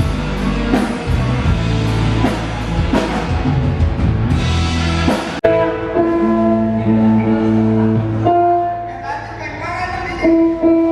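Live rock band playing at a sound check: drum kit, bass and electric guitar. About five seconds in it cuts off abruptly, and held keyboard chords and notes follow.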